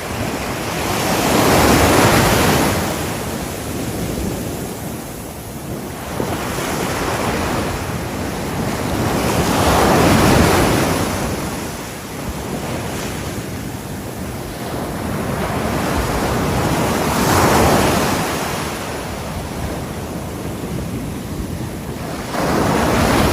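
Ocean surf breaking on a shore. Waves build and wash in about every seven or eight seconds, four times, with a steady hiss of water between them.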